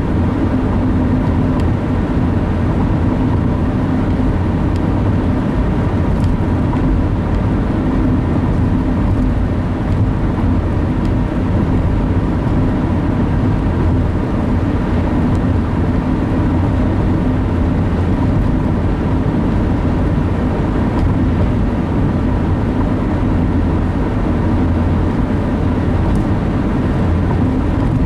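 Steady road and engine noise inside a moving car's cabin at cruising speed, a low rumble that stays even throughout.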